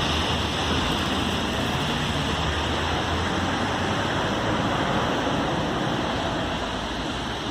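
Steady hiss of heavy rain, picked up on a phone microphone, with a low rumble underneath.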